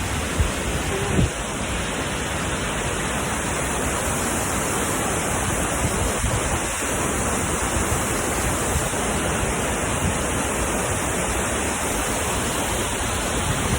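Steady, unbroken rushing noise of a large waterfall, Burney Falls, heard close by.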